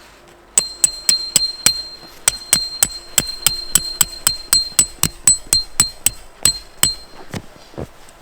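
Metal struck over and over in quick, even blows, about three or four a second. Each blow rings at the same high pitch, and the blows grow fainter near the end.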